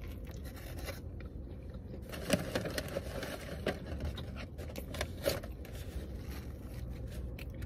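A person biting and chewing a burger close to the microphone, with scattered short clicks and the crinkle of its paper wrapper.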